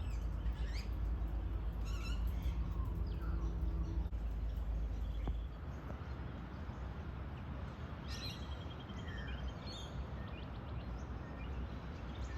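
Wild birds chirping and whistling with short scattered calls, including a rapid trill of repeated notes about eight seconds in, over a steady low rumble that drops off about five and a half seconds in.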